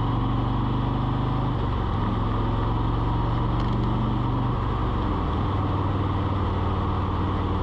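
Multirotor drone's motors and propellers humming steadily, several pitched tones together that shift in pitch about a second and a half in and again around four and a half seconds in.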